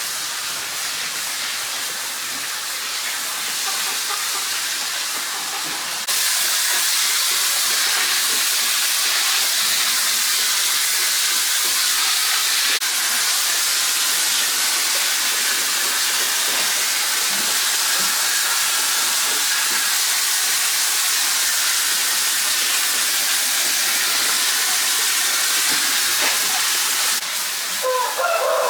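A steady, loud hiss of rushing noise, jumping up suddenly about six seconds in and dropping back shortly before the end. A rooster starts to crow at the very end.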